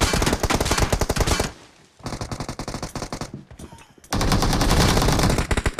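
Automatic gunfire in a shooter video game: a loud rapid burst, a brief pause, quieter rapid fire, then another loud sustained burst from about two-thirds of the way in.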